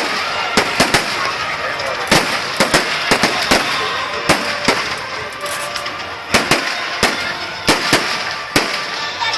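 Fireworks display: a rapid, irregular series of sharp bangs from bursting shells and firecrackers, several a second at times, with a short lull past the middle before a few loud bangs come in again.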